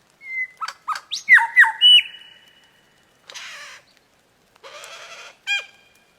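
A bird calling: a quick series of short whistled notes that slide sharply down in pitch, then two harsh rasping calls, then one more whistled note near the end.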